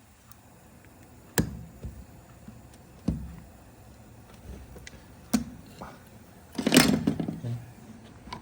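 Three sharp knocks about two seconds apart, then a longer, louder clattering scrape near the end. These are metal parts of a truck steering column being knocked and handled during its overhaul.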